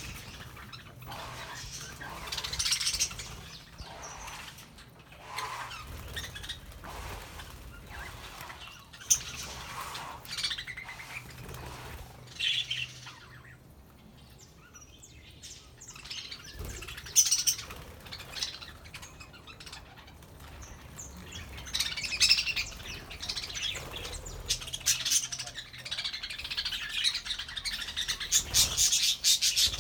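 A flock of budgerigars chattering and chirping in bursts, with a quieter lull around the middle and busier, faster chirping over the last several seconds.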